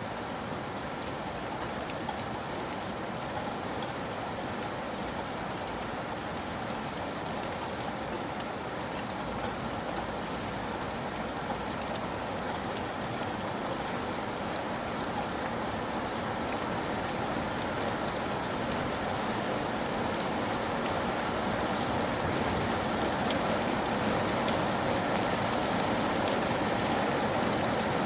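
Steady rain falling, with many small drops pattering on a surface; it grows a little louder toward the end.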